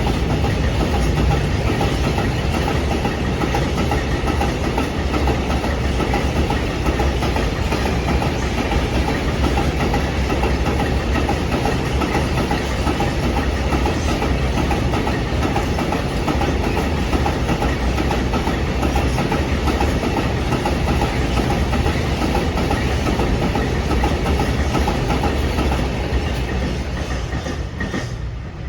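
Train running past, with a heavy engine drone under the clatter of wheels on the rails; it fades near the end.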